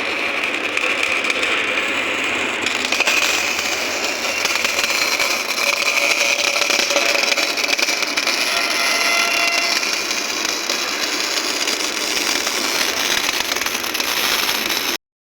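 Portable line-boring and bore-welding rig running steadily at work on a bore, a continuous machine noise that cuts off suddenly near the end.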